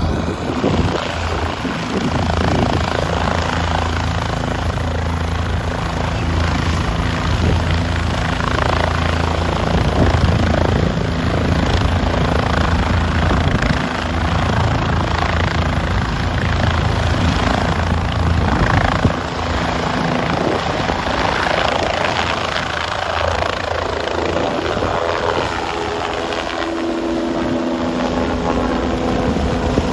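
Police helicopter taking off: its rotor and turbine engine run loud and steady. A heavy low rotor beat dominates for the first twenty seconds or so, then eases while a few steady engine tones stand out near the end.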